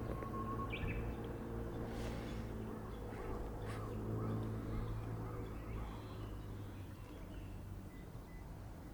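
A low engine hum slowly fading away, with a few short bird chirps over it.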